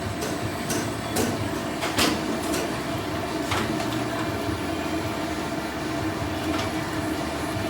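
Steady mechanical hum of boiler-room equipment, with a few sharp metal clanks from the rigging gear, the loudest about two seconds in.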